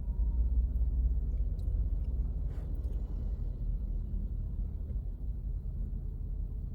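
Low, steady rumble of a car on the move: engine and road noise.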